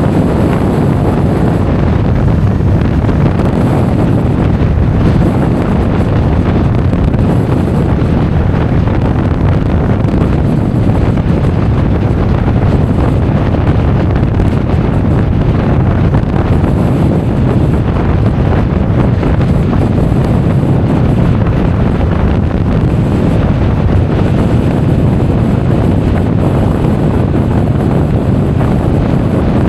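Steady, heavy wind rumble on an action camera's microphone while riding a Honda Forza 350 scooter at speed.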